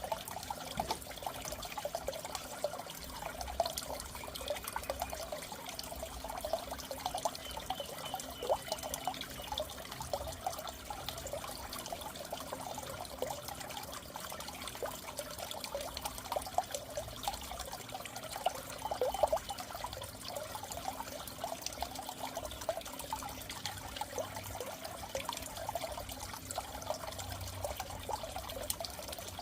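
Water in a goldfish tank trickling and bubbling steadily, a continuous stream of small splashes with a faint hum underneath.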